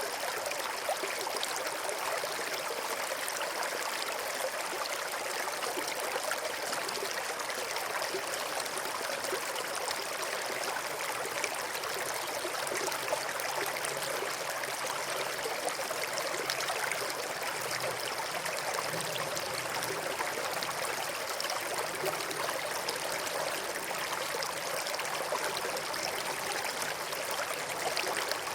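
River water flowing and babbling over rocks, a steady rushing with fine splashing.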